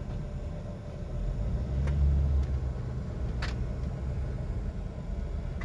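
Car engine running at low speed, heard from inside the cabin, with a low rumble that swells briefly about two seconds in as it takes a little more throttle. Two light clicks sound in the cab.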